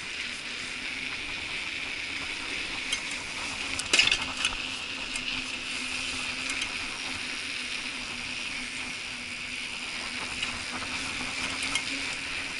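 Mountain bike rolling along a paved street, heard from a handlebar-mounted camera: a steady hiss of tyres and drivetrain with small rattles, and a sharp clatter about four seconds in.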